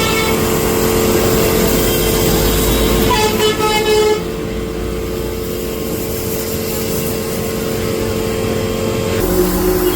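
Spray-polishing rig running: a steady motor hum with a spray gun's hiss that stops about four seconds in, the hum carrying on and shifting pitch near the end.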